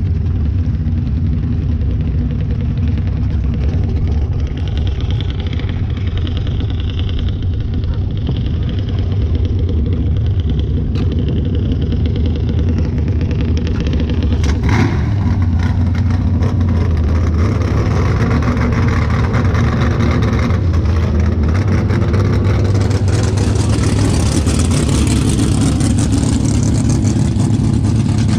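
Car engine running steadily with a low, even note. From about halfway a louder, rougher noise builds over it, and near the end a strong hiss joins in.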